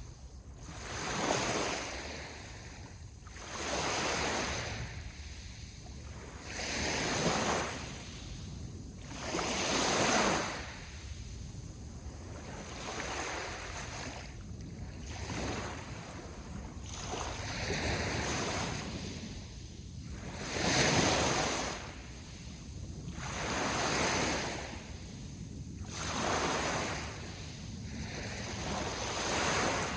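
Sea waves washing onto the shore, each rush swelling and fading every two to three seconds, over a steady low rumble.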